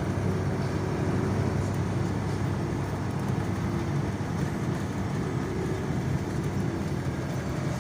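Steady engine and road noise of a vehicle driving along a road, without change.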